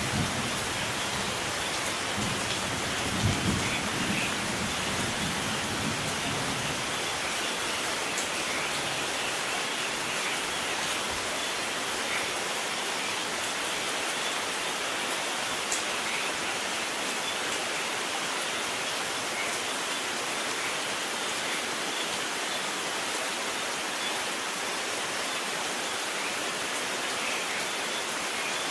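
Steady rain with a low rumble of thunder in the first few seconds, loudest about three seconds in, then fading away under the rain.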